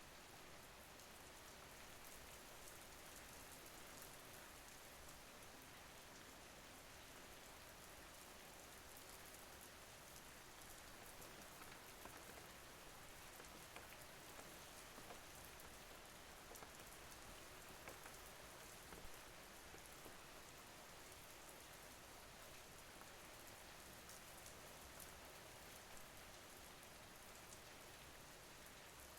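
Faint, steady rain: an even hiss with scattered soft drop ticks.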